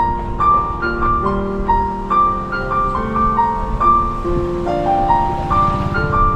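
Background piano music, a gentle melody of held notes changing about every half second, over a low rumble of street noise.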